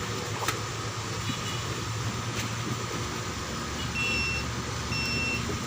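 Steady background rumble with two short electronic beeps, each about half a second long, a second apart near the end.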